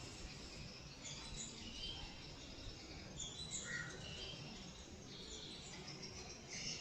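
Breeding cage birds giving short, high chirps at irregular intervals, over a steady low background hum.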